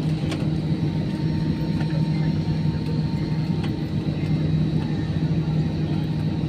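Airbus A320 cabin noise: the steady drone of the engines and rushing air, with a low hum, as the airliner comes in to land.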